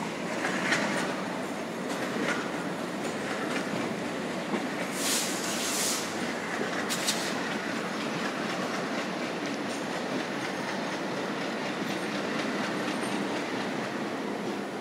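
Passenger train coach rolling along the track, wheel and rail noise heard through an open door, with brief high-pitched bursts about five and seven seconds in.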